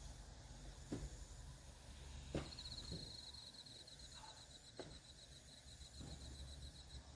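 Faint insect trill, a rapid run of high pulses that starts about a third of the way in and stops near the end, with a few soft knocks scattered through.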